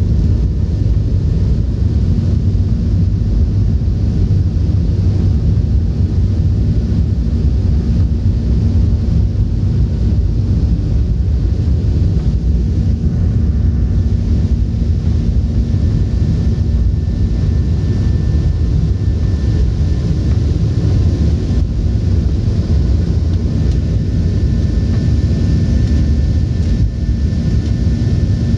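Cabin noise inside a Boeing 737-800: a steady, loud rumble of its CFM56-7B turbofan engines and airflow, with a few faint steady hums over it.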